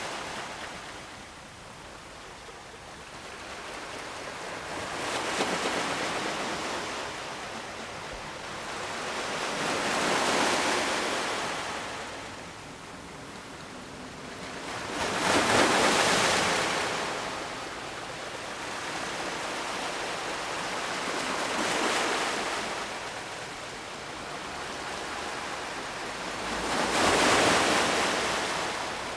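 Ocean waves breaking on the shore and washing back, one swell of surf after another about every five or six seconds, the two biggest about halfway through and near the end.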